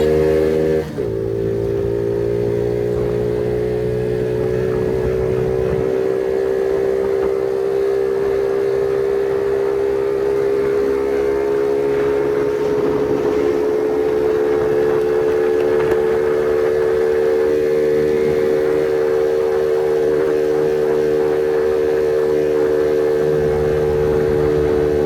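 Phoenix 50cc motorcycle's small single-cylinder engine running hard under way. It dips briefly about a second in, then its pitch climbs slowly and steadily as it holds high revs.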